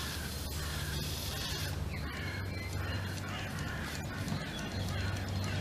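Birds calling repeatedly, a quick series of short calls, over a steady low hum.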